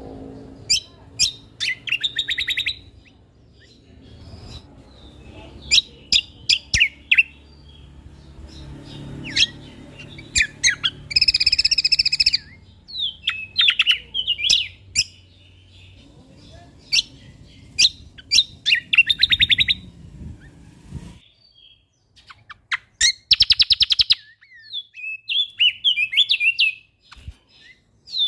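A songbird singing in bursts of sharp, rapid chirps and whistled phrases, with fast rattling trills about twelve seconds in and again near the twenty-four second mark. A low background rumble runs under the song and cuts off suddenly about two-thirds of the way through.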